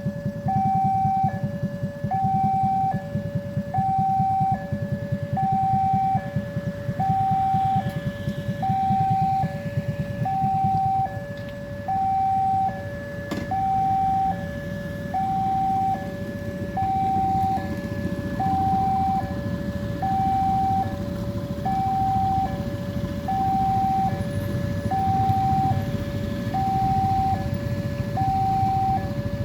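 Railway level-crossing warning alarm sounding a two-tone electronic signal, high and low tones alternating about once a second, over a steady low rumble.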